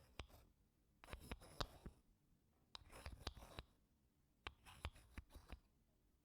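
Wooden spoon scraping across wooden blocks in short, gentle strokes. Each stroke is a second-long run of small clicks and scratches, with about four strokes spaced a second or so apart.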